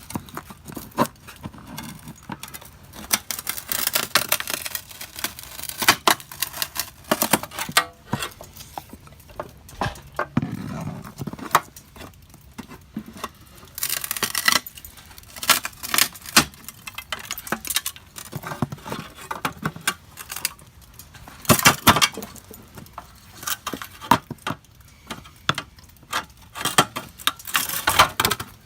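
Pry bar levering an old aluminum window frame out of the wall: irregular metallic scraping, clicking and rattling, with several louder bursts as the frame gives.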